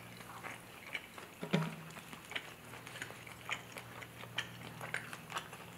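Close-miked mouth sounds of chewing noodles: soft wet clicks and smacks, irregular, several a second, with one slightly louder sound about one and a half seconds in. A faint steady low hum runs underneath.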